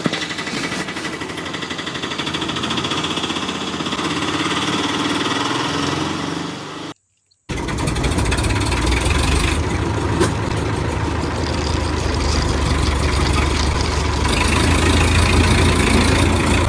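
Mini tractor's engine running steadily, cut off abruptly about seven seconds in; after a brief gap a heavier, deeper engine rumble runs on.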